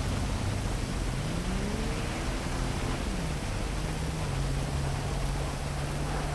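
Heavy rain falling steadily as a constant hiss over city traffic. A low vehicle-like tone rises and falls in pitch between about one and three seconds in, followed by a low steady hum.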